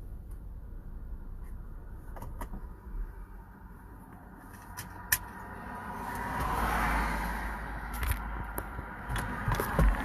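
A car passing by: its road noise swells about six seconds in and fades, with another starting near the end, over a low steady rumble and a few sharp clicks.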